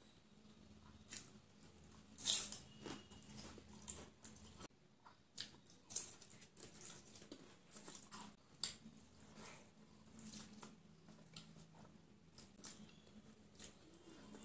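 A person biting and chewing crisp papad and rice close to the microphone: irregular crunches, wet chewing clicks and lip smacks. The loudest crunch comes about two seconds in.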